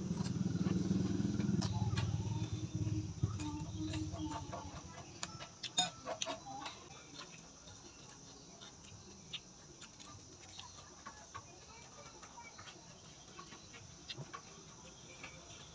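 Close-up eating sounds: scattered sharp clicks and crunches of chewing raw vegetables and boiled shrimp, most of them about five to seven seconds in. A low rumble fills the first few seconds, then a faint steady background.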